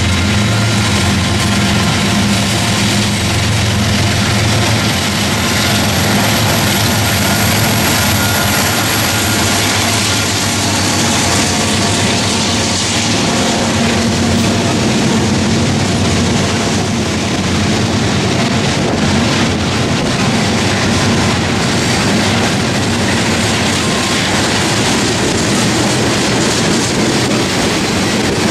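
Two freight trains passing each other on adjacent tracks. Diesel locomotives run by at first, then loaded coal hoppers and intermodal cars give a steady rolling rumble and clickety-clack.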